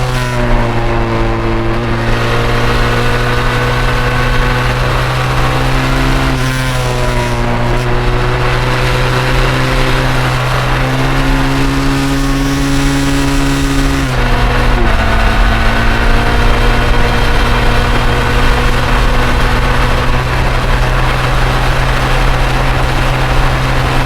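Benelli TRK 502's parallel-twin engine running under way at fairly steady revs, with the pitch dipping and picking up again a few times and running a little louder from about two-thirds of the way in.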